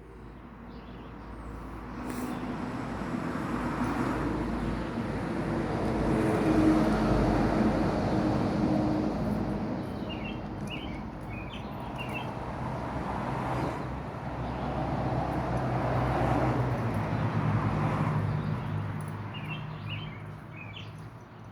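Road traffic passing: two vehicles go by one after the other, each swelling up and fading away, the first loudest about seven seconds in and the second about seventeen. A small bird chirps briefly twice, in the lull between them and again near the end.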